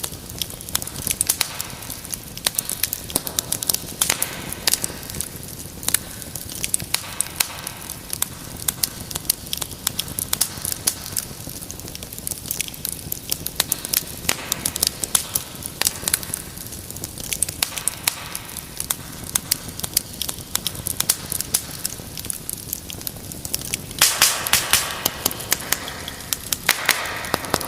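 Wood fire crackling, with a steady stream of sharp pops and snaps over a soft hiss of flame. Near the end a denser flurry of pops sets in, along with a louder hiss.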